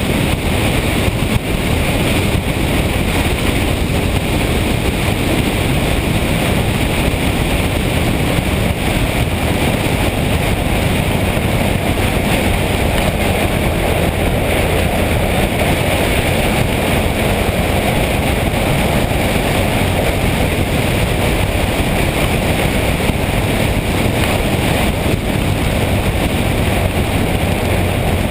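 Steady wind rush over the microphone, with motorcycle engine and road noise, from a motorcycle being ridden at speed.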